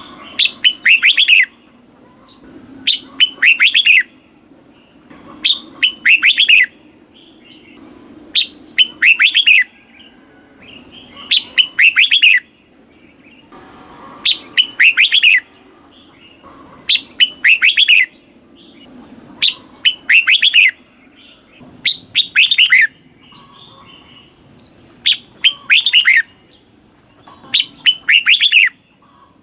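Red-whiskered bulbul singing, repeating a short, bright phrase of quick warbled notes about every two and a half seconds, some eleven times.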